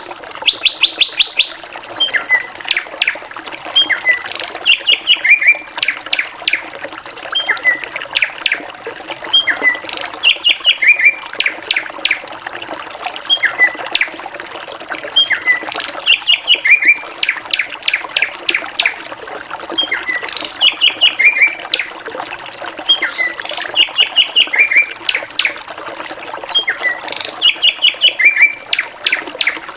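Drongo singing: a phrase of sharp chirps and quick clipped, rapidly repeated notes, given again and again every three to four seconds, over a steady low background hiss.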